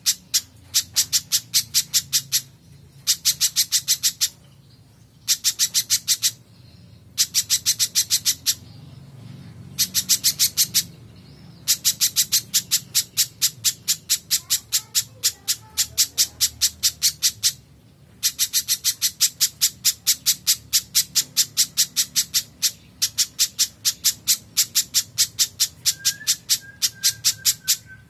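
Spiderhunter calling: rapid runs of sharp, evenly repeated high chip notes in bouts of a few seconds, separated by short pauses.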